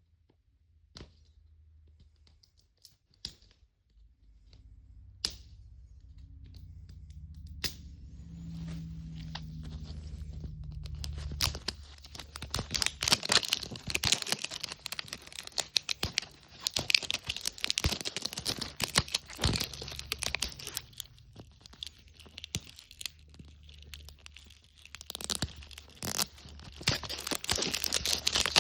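Plastic wrapping being torn and peeled off a Mini Brands capsule ball. A few separate clicks come first, then a dense crackling of crinkling plastic from about halfway in.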